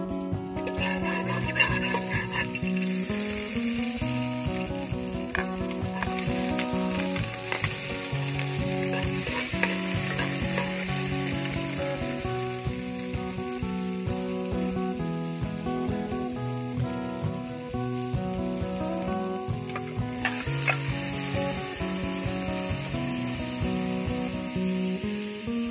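Chopped shallots sizzling in hot oil in a metal pot, stirred with a metal ladle, with a few sharp clinks of the ladle on the pot. The sizzle starts about half a second in and grows louder again twice.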